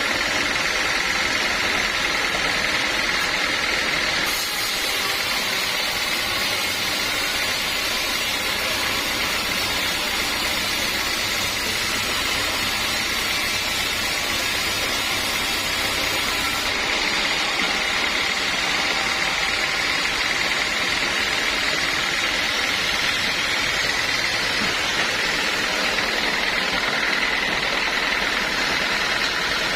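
Sawmill saw running steadily. A brighter, hissing sound joins about four seconds in and stops abruptly around seventeen seconds, as the blade cuts through a teak log.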